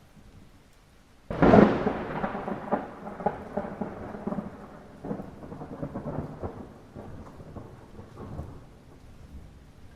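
A sudden clap of thunder about a second in, rolling and rumbling as it fades over the next several seconds, over a bed of steady light rain.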